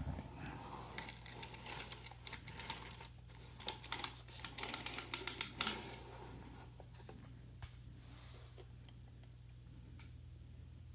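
Carriage of a 3D-printed flatbed knitting machine pushed across the needle bed to knit a course, its needles clicking and clattering as they are worked. The clatter is densest a little past the middle and stops about six seconds in.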